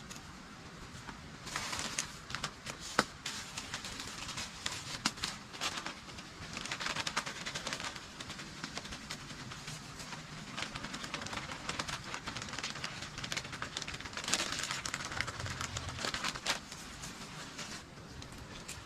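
Intermittent rustling and crackling in irregular spells, with scattered sharp clicks and taps.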